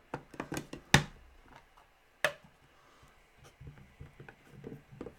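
Trading-card packaging being handled by hand: a string of sharp clicks and taps, the loudest about a second in and another a little after two seconds.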